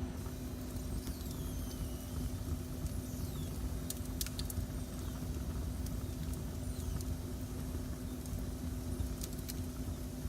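Wood fire burning in a fireplace: a steady low rumble of flames with scattered sharp crackles and pops. There are a few faint, falling whistles and a steady low hum under it.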